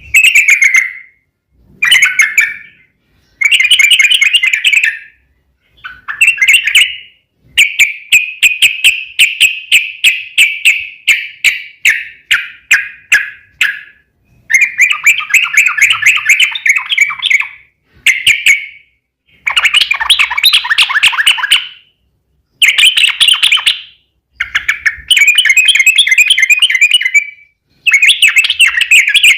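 Yellow-vented bulbul (trucuk) singing loud, bubbly chattering phrases, one after another with short pauses. About seven seconds in comes a long, rapid run of notes that slows toward its end: the long 'ropel' song.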